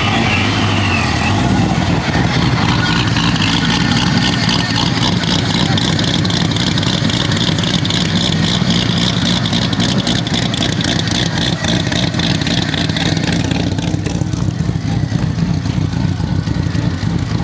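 A car engine running steadily, loud and close by.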